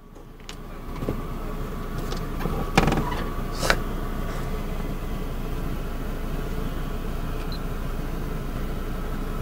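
Car engine idling, a steady low hum heard inside the cabin, with two sharp clicks about three and four seconds in.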